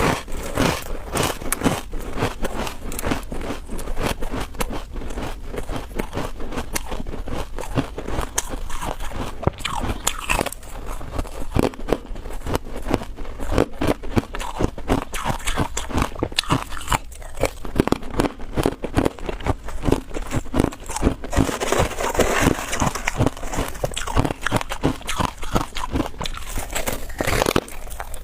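Freezer frost ice being bitten and chewed close to the microphone: a dense, irregular run of crunches.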